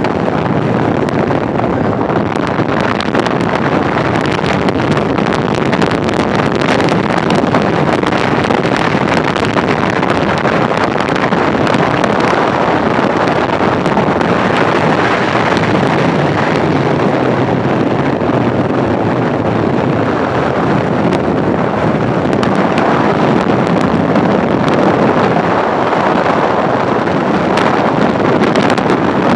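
Steady rush of wind on the microphone with tyre and road noise from a car driving along.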